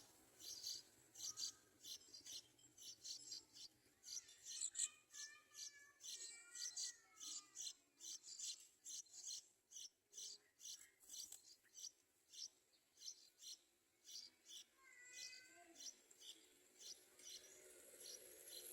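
Faint yellow-vented bulbul calls: a steady run of short, high chirps, about three a second, with a few brief warbling calls around five to seven seconds in and again near fifteen seconds.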